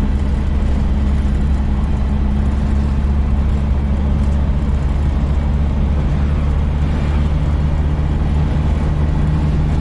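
A 4x4 jeep's engine running steadily while driving, heard from aboard: an even low drone with road and wind noise over it.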